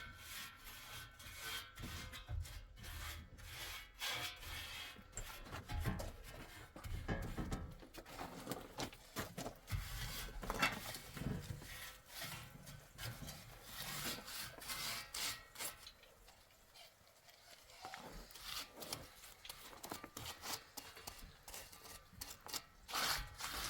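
Irregular scraping and rubbing, with scattered knocks and clicks, from hands working something.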